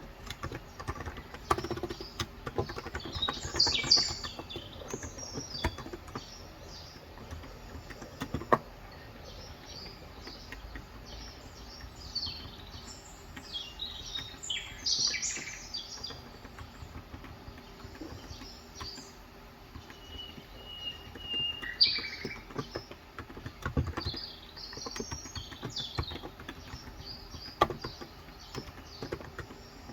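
Small birds chirping and twittering in bursts, with one short steady whistled note. A handful of isolated keystrokes on an electrostatic-capacitive keyboard click now and then.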